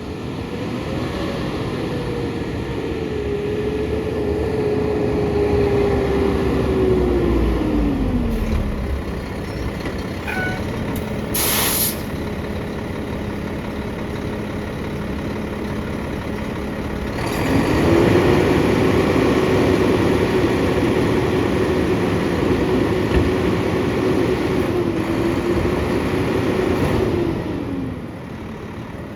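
Mack LR garbage truck's diesel engine revved up and held at high idle to drive the packer hydraulics while packing recycling. It does this twice: the first run drops back at about a third of the way through, and the second comes up again past the middle and eases off near the end. A short hiss of air comes in between.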